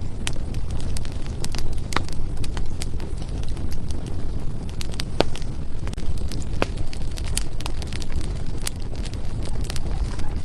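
Firewood burning in a fireplace: a steady low rumble of the flames with irregular sharp crackles and pops throughout, a few of them louder.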